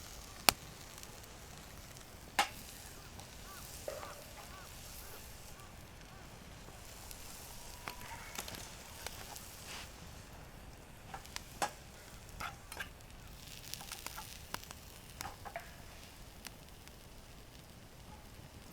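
Wood campfire crackling, with scattered sharp pops, the loudest about half a second and two and a half seconds in. A few faint short calls sound in the background.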